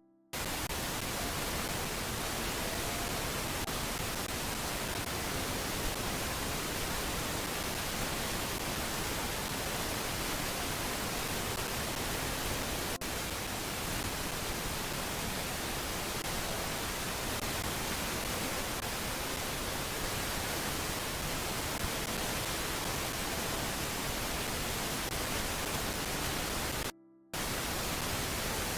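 Steady, even hiss of static-like noise with no distinct events, cutting out to silence for about half a second near the end.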